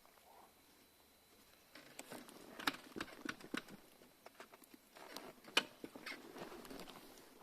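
Irregular light crackling and rustling, a close series of sharp little clicks that starts about two seconds in.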